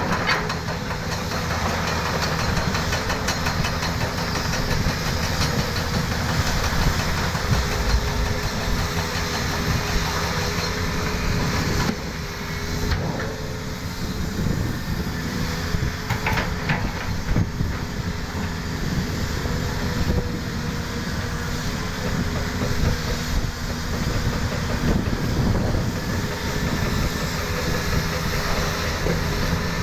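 An engine running steadily, with a low hum under a clattering noise.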